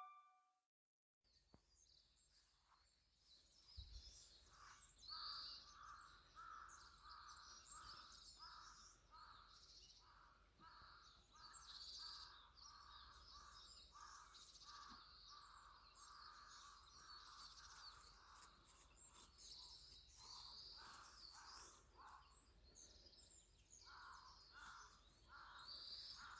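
Faint birdsong in the open: a bird repeats a short note about twice a second, with higher chirps over it. It begins a few seconds in and breaks off briefly about two-thirds of the way through.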